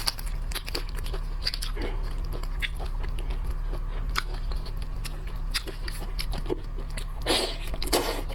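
A person chewing and biting into seafood, with irregular crunches and short wet clicks, over a steady low hum.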